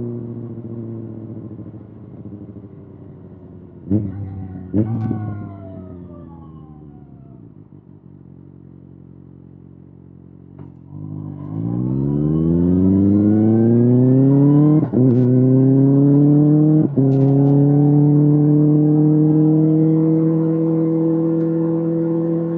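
Kawasaki ZX-6R inline-four with an SC-Project SC-1R exhaust. The engine winds down at first, with two sharp throttle blips about four and five seconds in, then runs low and quiet. About halfway through it accelerates hard with a steeply rising pitch, with two quick breaks in the sound that fit gear changes, then holds steady at high revs.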